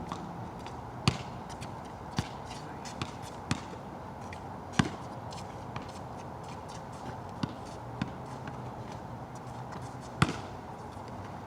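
A basketball bouncing on a wet outdoor court, about nine sharp bounces at irregular intervals, over a steady hiss of rain.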